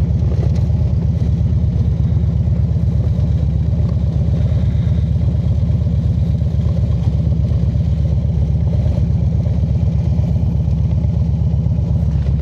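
Harley-Davidson V-twin motorcycle engine running steadily at low engine speed, a fast even throb with no change in pace.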